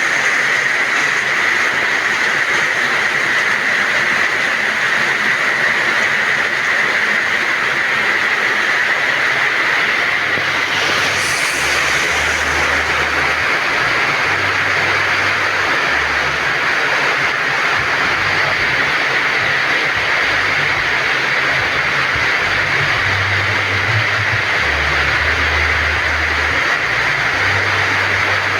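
Heavy rain falling steadily in a continuous hiss, with patchy low rumbling in the second half.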